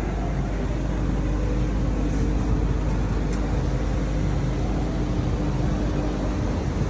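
Steady road-traffic rumble with a vehicle engine running, holding one steady hum from just after the start until near the end.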